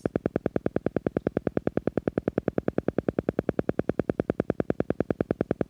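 Silva Method sound: an electronic tone pulsing evenly and rapidly, about ten pulses a second. It is meant to lead the listener's brain into a deeply relaxed state for hypnosis.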